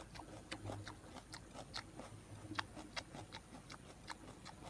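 Close-up chewing and wet mouth smacks of a person eating grilled tilapia, irregular short clicks several times a second.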